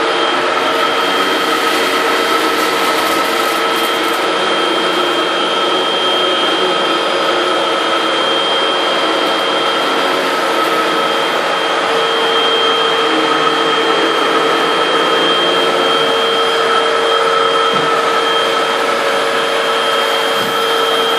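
Bagless cyclonic vacuum cleaners, a Fantom Lightning canister and a Hoover WindTunnel Max upright, running at full speed with a steady whine while sucking up popcorn. A few light ticks come about two to four seconds in, and the whine's tone shifts about halfway through.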